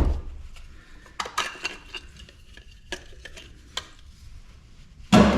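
Clinks, clicks and clatter of metal and plastic parts being handled while a large light fixture is taken apart, with a loud knock at the start and another near the end.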